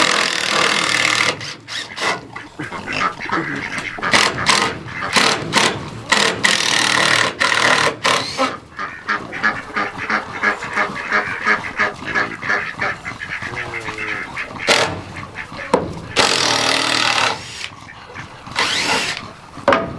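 Farm ducks quacking and honking loudly in many quick, repeated calls.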